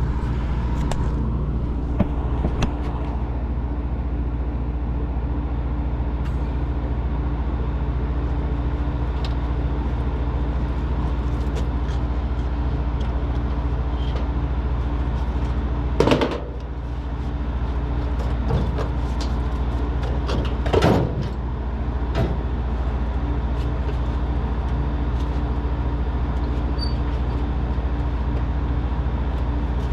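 Vacuum pump running steadily with a low, even hum while evacuating a refrigeration system. Two loud metal clanks come about halfway through and again about five seconds later.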